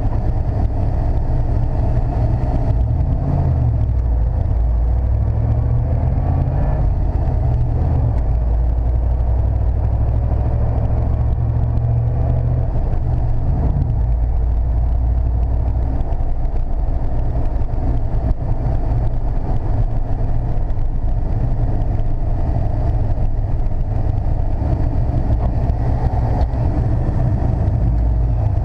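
1995 Chevrolet C/K 1500 pickup under way, with a steady low engine and road rumble heard from inside the cab and a few changes in the engine note in the first half.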